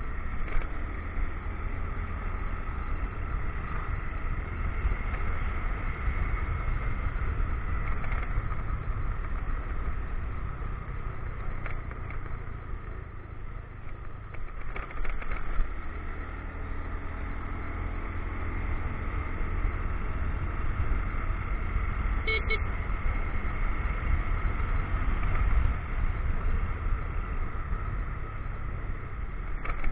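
Motorcycle engine running while riding, with low wind rumble on the action camera's microphone; the engine eases off about halfway, then picks up again.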